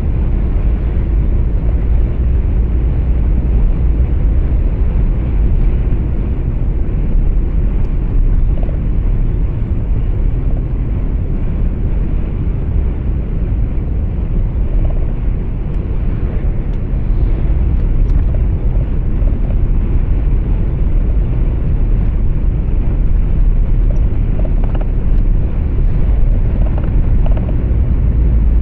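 Steady deep rumble of a truck's engine and road noise heard from inside the cab while driving.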